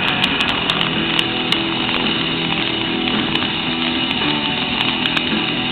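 Large bonfire burning with a steady rush and frequent sharp crackles and pops.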